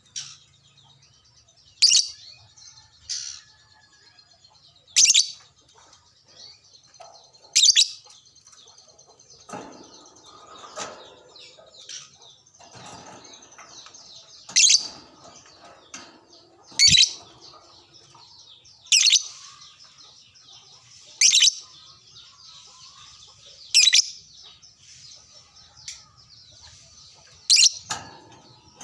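Lovebird giving short, sharp, high-pitched shrieks, about one every two to three seconds, with a gap of several seconds in the middle filled by soft chattering.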